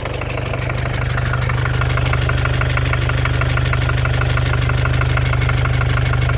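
Mercedes OM651 four-cylinder diesel idling with a rapid, even tapping knock, like someone tapping with a hammer, growing louder over the first second or so. The knock persists after new injectors and hydraulic lifters; the owner thinks it seemingly harmless and doubts it is the crankshaft.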